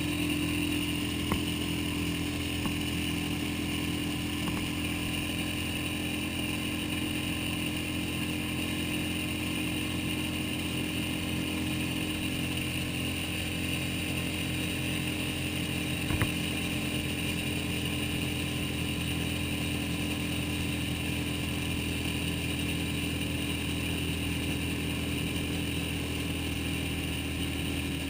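Suzuki 6 hp outboard motor running steadily at constant speed, pushing a small inflatable boat, with a couple of brief sharp knocks.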